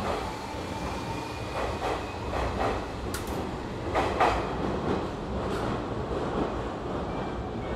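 Train rumbling at the platform of an underground railway terminal, with a few sharp clacks in the middle.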